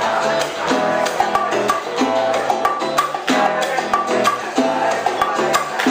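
Old-school Cuban dance music played by a live band: a salsa-style groove with a repeating bass line, chords and sharp, regular percussion strokes like a wood block or clave.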